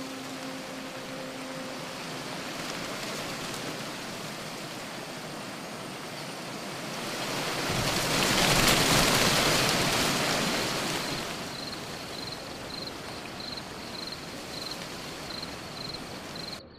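A steady rushing noise swells to its loudest about eight to ten seconds in and then eases back. From about eleven seconds, crickets chirp in an even, pulsing trill.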